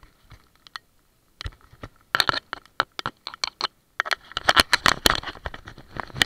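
Raindrops striking the kayak and camera at close range as many irregular sharp ticks. They come sparsely at first, pick up about two seconds in, and grow dense from about four seconds in.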